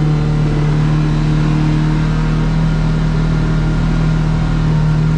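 Kawasaki KRX side-by-side engine running at a steady speed, a constant drone that holds one pitch throughout.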